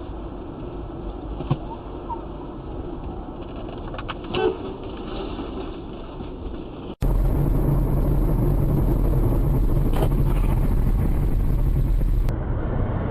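Steady road and engine noise of a vehicle on the move, as picked up by a dashcam. It changes abruptly about seven seconds in to a louder, low, steady rumble, then again about a second before the end.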